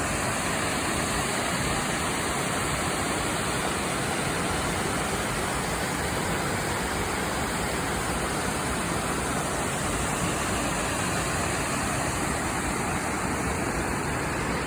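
A wide waterfall pouring into a pool, a steady full rush of falling water.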